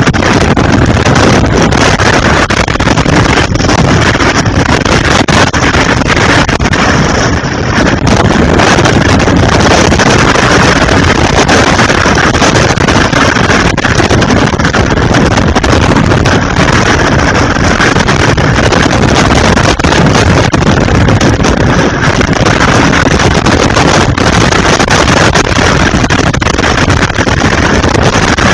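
Typhoon wind blowing hard, a loud, steady rush of noise with the wind buffeting the microphone.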